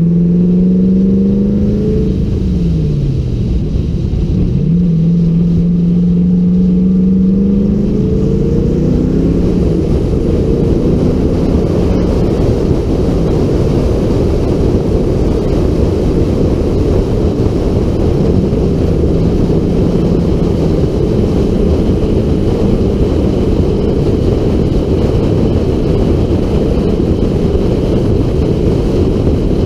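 LS1 V8 in an FD Mazda RX-7 pulling at moderate revs on track; its note dips about two seconds in and comes back up, then holds steady. From about eight seconds on, wind rush on the outside-mounted camera's microphone mostly covers the engine, which comes through only now and then.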